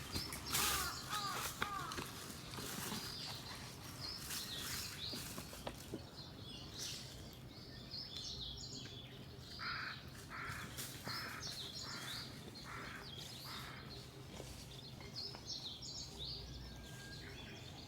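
Woodland birds calling. Small birds chirp throughout, and in the middle a harsh call repeats about seven times, a little more than one a second.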